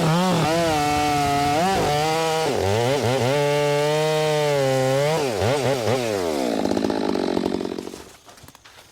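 Stihl MS 462 C chainsaw bucking a hickory log at high revs, its engine pitch dipping and recovering as the chain bogs in the cut. About six and a half seconds in the throttle is released and the saw winds down, falling quiet about a second before the end.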